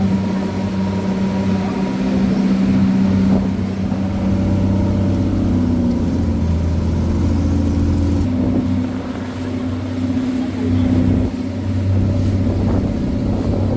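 Motorboat engine running steadily, its pitch shifting a little a few times.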